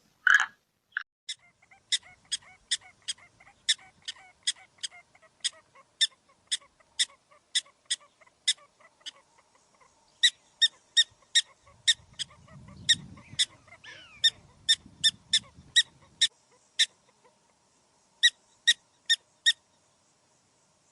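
An animal calling in a rapid series of short, sharp, high calls, about two a second. The calls come in runs broken by brief pauses, with a faint low rumble under the middle run.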